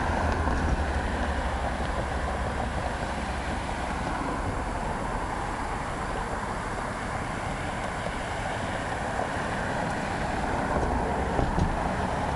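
A bicycle being ridden: steady wind rush over the microphone with a low rumble of tyres on the path.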